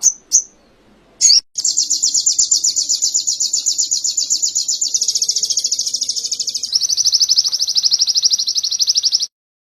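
A sogok ontong (sogon) songbird singing canary-style song: a few short sharp chirps, then a long, very fast, high trill that changes its pattern twice and cuts off abruptly near the end.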